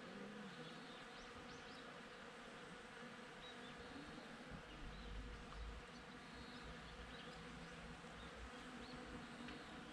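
Bees buzzing faintly at cherry blossoms, a steady hum, with a brief low rumble in the middle.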